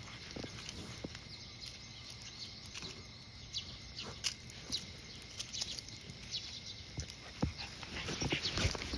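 A dog out on a leashed walk, with scattered light clicks and shuffles. Footsteps on pavement pick up again near the end.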